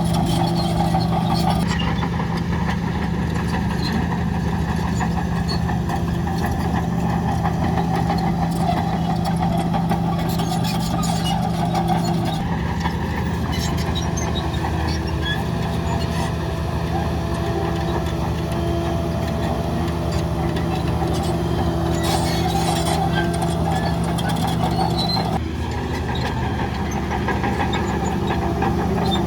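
Heavy diesel earthmoving machinery running steadily: bulldozer and dump truck engines. The engine sound shifts abruptly about 2, 12 and 25 seconds in.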